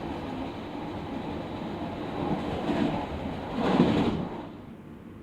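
A local diesel train on the Muroran Main Line running along the track, heard from on board. A louder swell of rushing noise comes about three and a half seconds in, after which it goes quieter.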